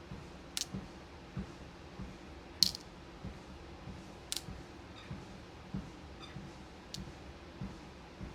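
Steady footsteps on a walking pad, about three every two seconds, over a faint steady hum. A few sharp clicks of beads being handled and sorted come over them, the loudest a little under three seconds in.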